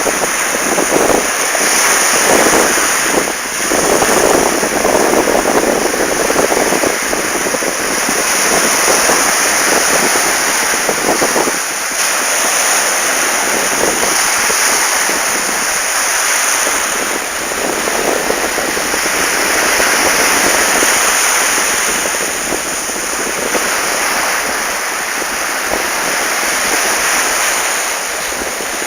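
Sea waves washing onto the beach in a steady, loud hiss of surf that swells and eases every few seconds, with wind buffeting the microphone.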